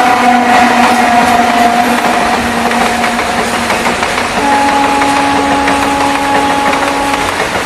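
Freight train passing at close range, a WAG-5 electric locomotive at the start and then its container wagons: loud, steady noise of wheels rolling on the rails with a steady hum over it. A different, higher hum sets in about four and a half seconds in and stops shortly before the end.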